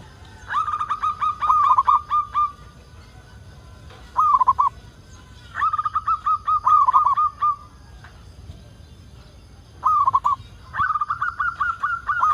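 Zebra dove (perkutut) singing its staccato cooing song, repeated about every five seconds: each phrase is a short opening coo followed by a quick run of rolling coos. Three phrases, the last still going near the end.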